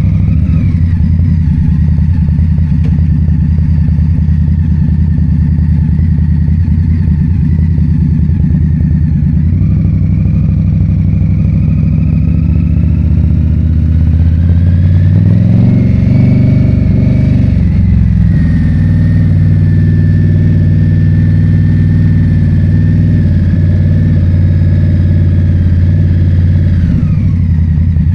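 Motorcycle engine running while riding, with wind noise. The engine pitch climbs slowly past the middle, drops suddenly at a gear change, holds steady, and falls off near the end.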